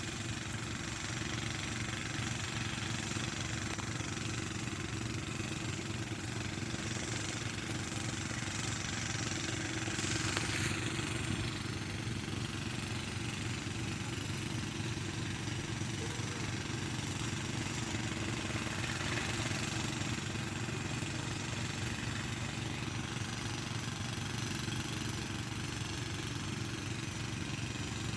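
Small engine of a mini tiller (mesin cangkul) running steadily at an even speed, a little louder about ten seconds in.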